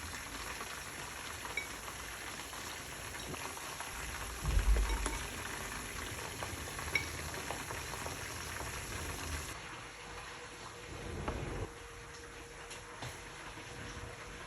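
Food frying in hot oil in a pan, a steady sizzle with a couple of low thumps; the sizzle thins out about two thirds of the way through.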